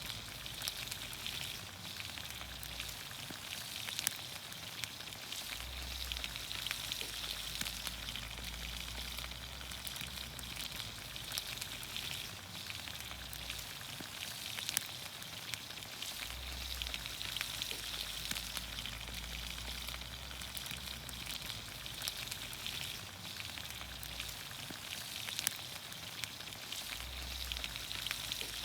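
Vegetables cooking in olive oil over a campfire: a steady sizzle with scattered sharp pops and crackles.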